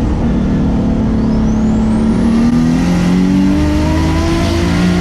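Lexus SC300's turbocharged 2JZ-GTE straight-six accelerating hard, its pitch climbing and then stepping down at gear changes about two seconds in and again at the end. A high whine rises over the engine around a second and a half in.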